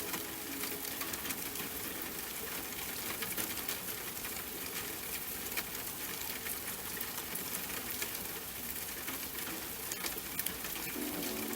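Steady rain, an even hiss dotted with many small drop ticks. Soft, sustained music tones fade out at the start and come back near the end.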